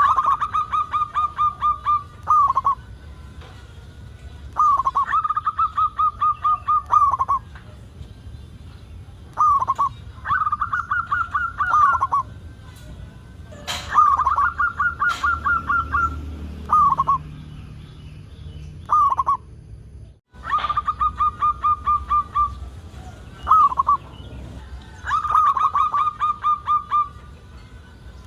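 Zebra dove (perkutut) song: a phrase of rapid staccato coos repeated about eight times, each phrase a couple of seconds long, with short single coos between them. Two sharp clicks come about halfway through, and the sound drops out for an instant a little later.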